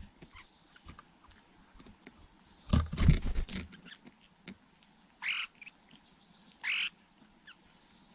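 A short burst of rustling and thumping, then two short, high, croaky calls from a bird about a second and a half apart.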